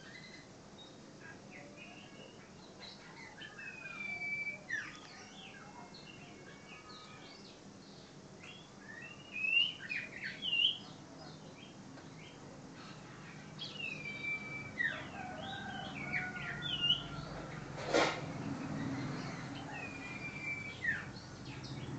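Common iora (cipow) singing: a run of short, bright whistled chirps and slurred rising and falling notes, with a single sharp click about eighteen seconds in.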